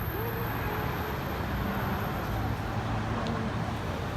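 Steady rumbling background noise like road traffic or a moving vehicle, with faint voices in the mix.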